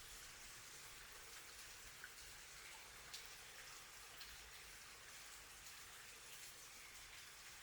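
Faint, steady rain, with a few single drops ticking sharply.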